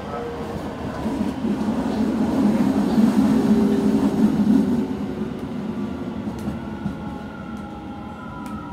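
Keio 9000 series commuter train running, heard from inside the car by the end gangway: a dense running rumble that swells in the middle and then eases, with a thin whine coming in over the last few seconds.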